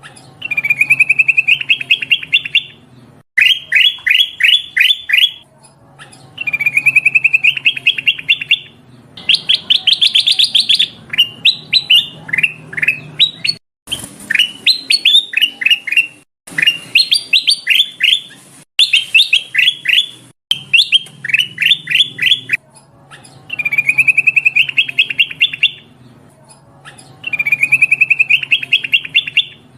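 A kutilang emas bulbul calling over and over: phrases of quick, rapidly repeated rising chirps, each lasting a second or two, with short pauses between them. This is a lure recording of its call, used to draw in other birds.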